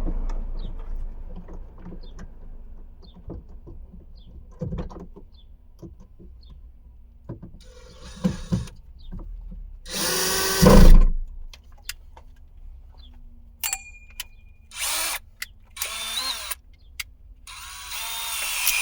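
Power drill with a screw bit driving screws into the third brake light mounting, in several short runs with handling clicks between them.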